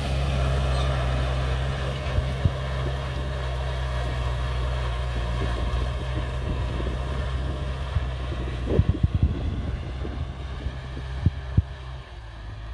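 A farm tractor's diesel engine runs steadily under a deep, even drone. There are a few sharp knocks around three-quarters of the way through. The engine sound drops away shortly before the end.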